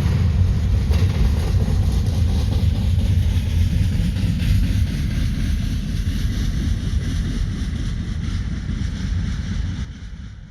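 Double-stack container freight train rolling past, its wheels on the rails making a steady low rumble. The sound fades out near the end.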